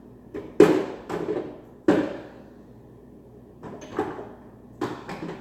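Kitchen cupboard and spice bottles being rummaged through: a few sharp knocks and clunks, the loudest about half a second in and near two seconds in, with softer ones later.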